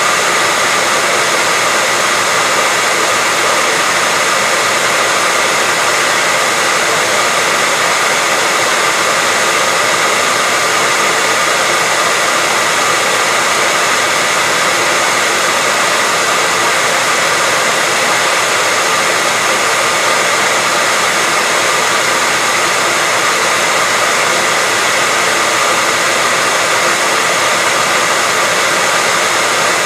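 Hair dryer blowing steadily: an even rush of air with a faint motor whine held at one pitch, no change in speed.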